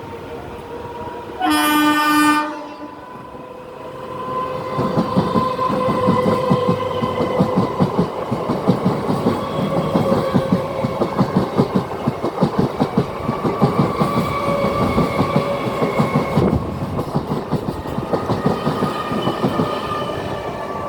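A suburban local electric train's horn sounds once for about a second, then the train passes close by, its wheels clattering rapidly over the rail joints with a steady hum over the top.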